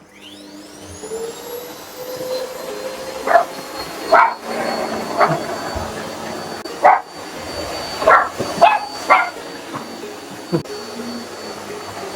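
A vacuum cleaner switches on, its motor whine rising as it spins up, then runs steadily. A toy poodle barks at it in about eight sharp barks, spread unevenly over the middle of the clip.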